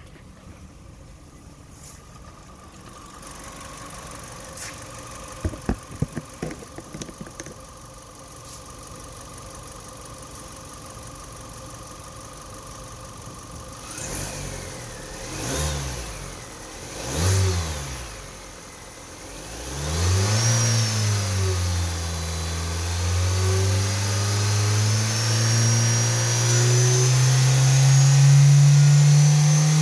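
2012 Kia Soul 2.0-litre engine running on test: it runs quietly at first, with a short burst of clicks, then is revved in three short blips and held at higher revs whose pitch climbs slowly.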